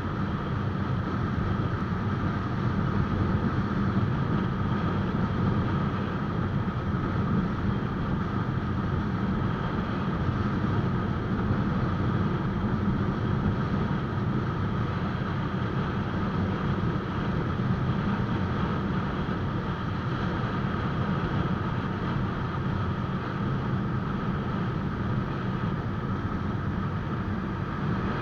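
Motorcycle riding steadily along a highway: the engine runs at a constant speed under road and wind noise, with no revving or gear changes.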